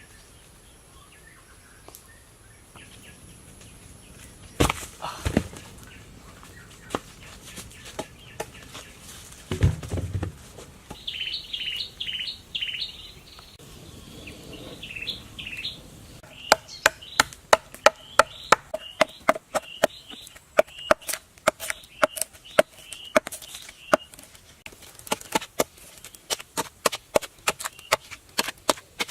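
Sharp knocks, two or three a second, in the second half, each with a short hollow ring, like chopping or tapping on wood. Earlier there are scattered single knocks and several brief bird chirps.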